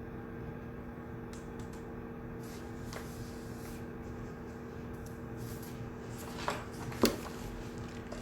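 Shared study-room ambience: a steady low hum with faint rustling of people working. Near the end come two sharp little knocks about half a second apart, the second the loudest.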